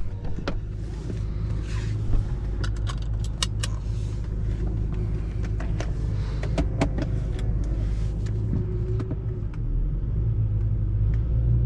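BMW F10 M5's 4.4-litre twin-turbo V8 idling steadily through a new X-pipe exhaust with its valves open. Scattered clicks and knocks sound over the idle as the driver gets into the car.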